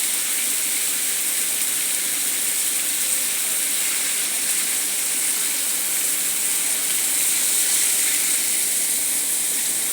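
Steady high-pitched hiss that does not change or break.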